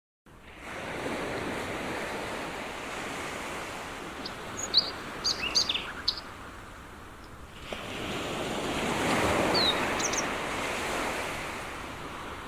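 Sea waves washing in, two slow surges, with a few short high bird chirps over them.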